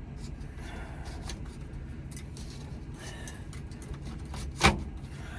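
Hand work on a truck's steering column: scattered small clicks and scrapes of parts being pried and worked loose, with one sharp, loud click near the end.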